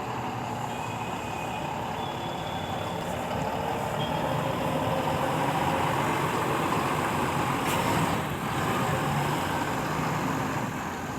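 Mahindra Blazo X 28 tipper truck's diesel engine running steadily. It grows louder in the middle and eases off after about eight seconds.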